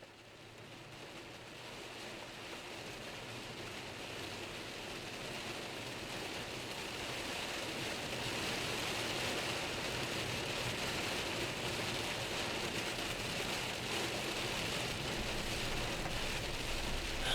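Steady rain fading in over about eight seconds, then holding, with a low rumble underneath.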